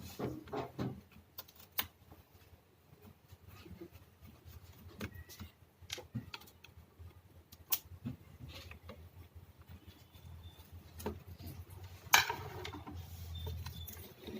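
Scattered small clicks and clinks of hand tools and metal fasteners as the nuts on the back of a window AC's display board are undone, with a brief louder rustle near the end.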